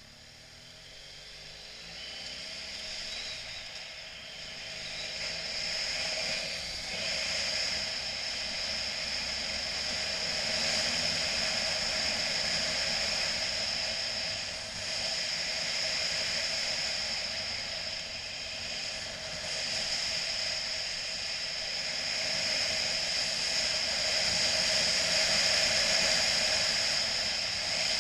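A motorcycle under way at speed, heard mostly as rushing wind noise. It swells over the first several seconds as the bike gathers speed, with the engine's rising note faintly underneath at first, then holds at a steady rush.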